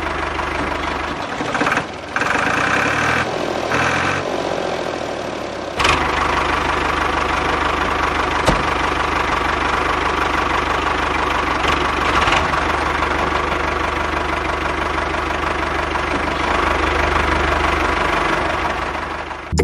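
A small motor-driven machine running, with an uneven mechanical noise that shifts in level for the first several seconds and then runs steady and louder from about six seconds in.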